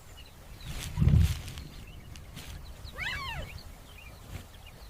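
Lion cubs vocalising: a short low growl about a second in, then a single mewing call about three seconds in that rises and falls, with faint bird chirps in the background.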